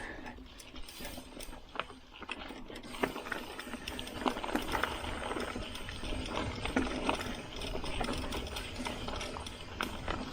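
Single-speed, belt-drive gravel bike coasting downhill on a rough trail. There is quick rattling and ticking from the freewheeling rear hub and the bike over bumps, over tyre noise on dirt and gravel. It grows louder a few seconds in as the bike speeds up.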